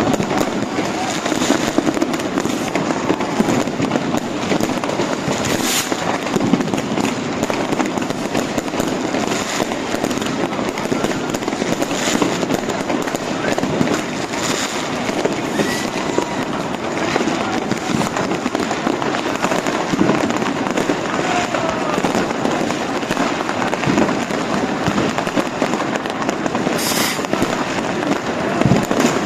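New Year's Eve fireworks and firecrackers going off all around, a continuous crackle and rumble with sharp loud bangs every few seconds, the loudest near the end, over the chatter of a crowd.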